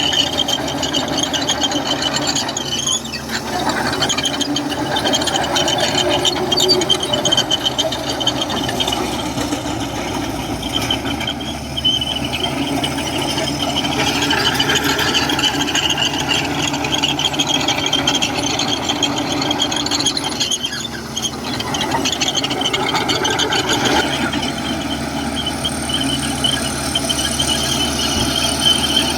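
Komatsu crawler bulldozer working: its diesel engine running under load while the steel tracks squeal with a high, steady screech, briefly easing a few seconds in and again about two-thirds of the way through.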